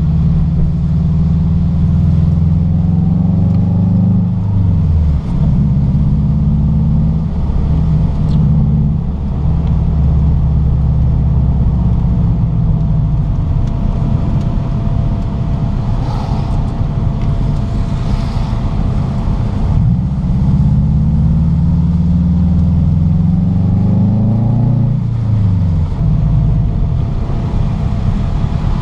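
Car engine pulling under acceleration while driving, a steady low drone whose pitch climbs and then drops sharply at upshifts, about five seconds in and again near the end.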